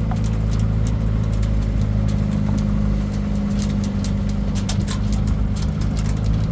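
A motor vehicle's engine running steadily, with many light rattling clicks over it.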